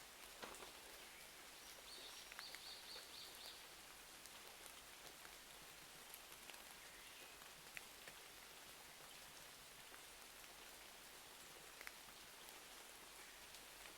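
Faint, steady rain ambience with scattered small clicks, and a brief run of high chirps about two seconds in.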